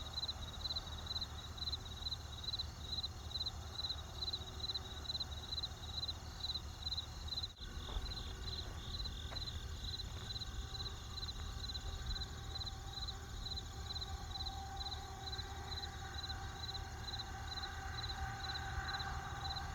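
A cricket chirping steadily and evenly, about two to three high chirps a second, over the low steady rumble of a campfire. The sound dips briefly about seven and a half seconds in.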